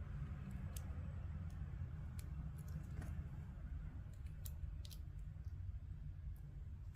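Plastic Lego pieces being handled and snapped together, giving scattered light clicks at irregular intervals over a steady low hum.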